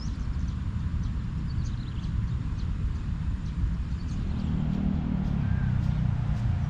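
A steady low rumble with a few faint bird chirps above it in the first half.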